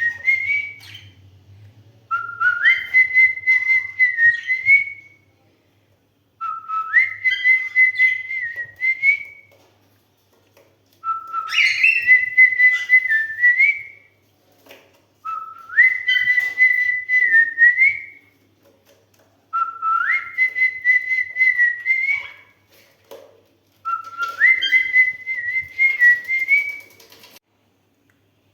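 Cockatiel whistling the same short tune over and over, about six times: each phrase starts on a low note, steps up to a held higher note with small wavers, and ends on a quick upward flick.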